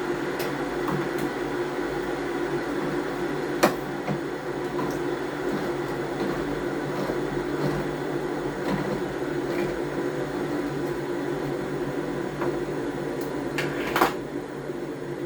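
Steady mechanical hum of a kitchen appliance, with two sharp knocks, one a little under four seconds in and one near the end.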